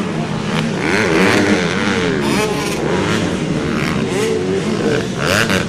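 Several racing motorcycle engines running and revving together, their pitch rising and falling.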